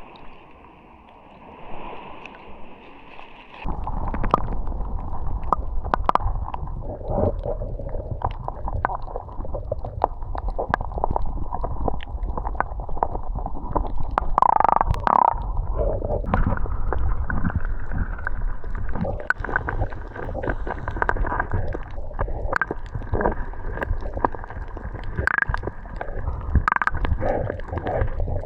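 Water sloshing and gurgling, with many small splashes and knocks over a low rumble, starting abruptly a few seconds in.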